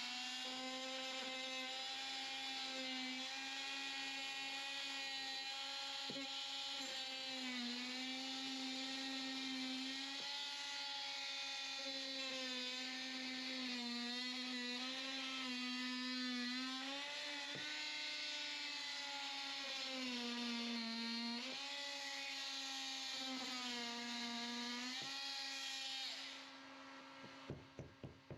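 Small handheld power tool running steadily, its pitch sagging several times as the cutter bites into the wall, cutting the opening for the light's electrical box. The motor stops about 26 seconds in, followed by a few light clicks.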